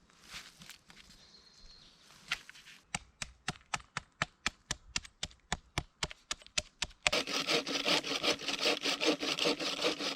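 Hand saw cutting wood: a run of short, sharp strokes at about four a second, then about three seconds of loud, continuous rasping sawing.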